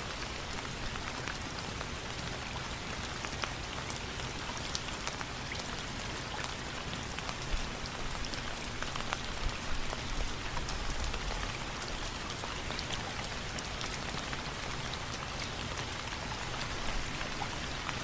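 Steady rain falling, an even hiss with many sharp scattered drip ticks, and a brief low rumble about ten seconds in.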